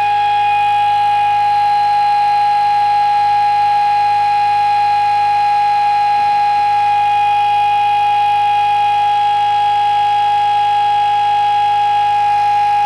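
Home-built pulse motor running at about 3,000 rpm on 24 volts under full load, its four alternator coils shorted out. It gives a steady, unchanging high-pitched whine with fainter overtones.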